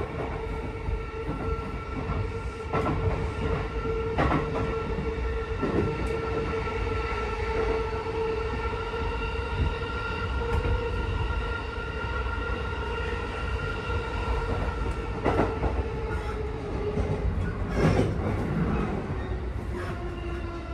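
Inside a JR E233-series electric commuter train running at speed: a steady motor whine over the rumble of wheels on rail, with a few knocks over rail joints. Near the end the whine falls in pitch as the train slows.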